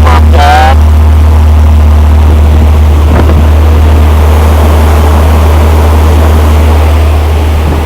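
Corvair 80 hp air-cooled flat-six engine running loud and steady on its first start-up after a rebuild, with good oil pressure; it eases off slightly near the end.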